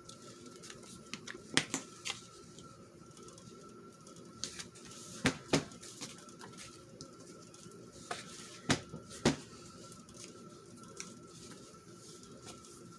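Paper being handled and glued down on a craft table: scattered light taps, clicks and rustles, with a few sharper taps in the middle. A faint steady whine sits underneath.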